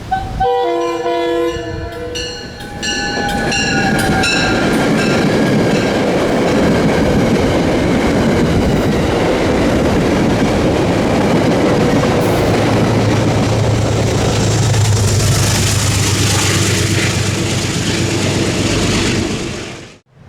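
A passenger train's horn sounds two chord blasts, then the train passes close by with a loud, steady rush and clatter of wheels on the rails. The sound cuts off suddenly near the end.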